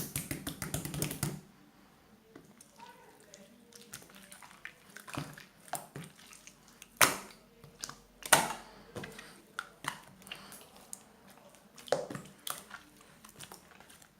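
Slime being squeezed and pressed by hand, giving a rapid run of clicks at the start, then scattered clicks and pops, a few of them louder.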